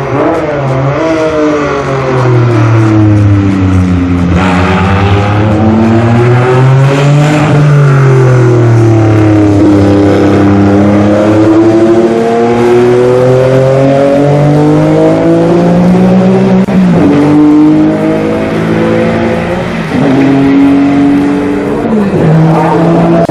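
Race car engine running hard, its pitch repeatedly falling and climbing as the revs drop and build, with sudden pitch breaks at gear changes twice near the end.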